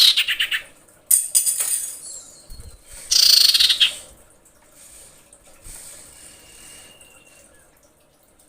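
Female common iora calling: three loud, harsh bursts of rapid chattering notes in the first four seconds, then a faint thin whistle. This is a breeding female's call used to lure in males.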